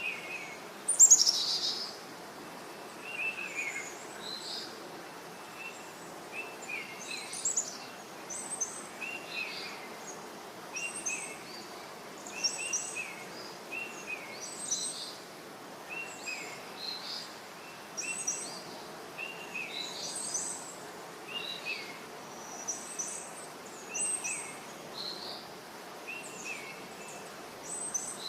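Birds calling: short chirps repeating about once a second over a steady background hiss, with one louder call sweeping down in pitch about a second in.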